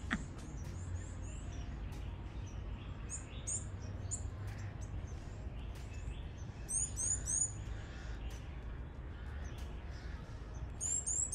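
Small birds chirping: short, very high notes that curve downward, in quick clusters of three or four, over a steady low rumble.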